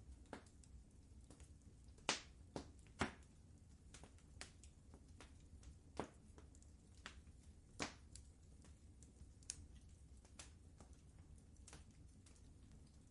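Wood fire crackling in a fireplace: sparse, irregular pops and snaps over a low, steady rumble, the sharpest pops about two and three seconds in.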